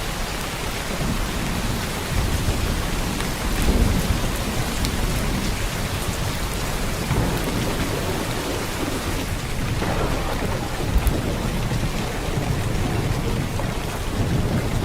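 Heavy downpour of rain: a dense, steady hiss of rain hitting surfaces, with a deeper rumble swelling a couple of seconds in.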